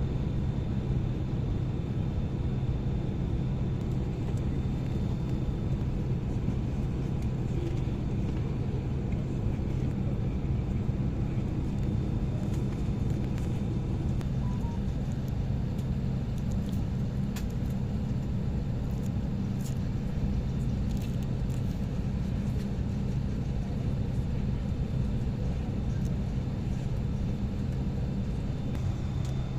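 Steady low drone inside a parked airliner's cabin, with a thin steady high whine over it and a few faint clicks in the middle.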